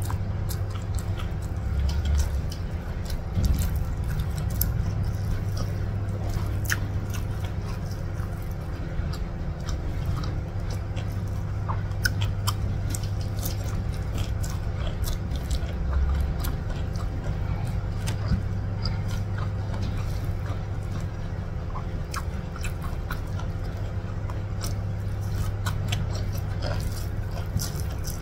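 Close-miked mouth sounds of someone chewing rice, beef rendang and urap eaten by hand, with many small wet clicks and smacks. A steady low hum runs underneath.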